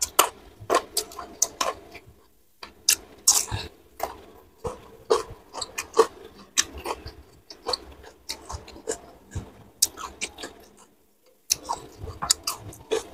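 Close-miked chewing of crispy dry-fried gourami with rice, eaten by hand: an irregular string of wet smacks and crunchy clicks, with two short pauses.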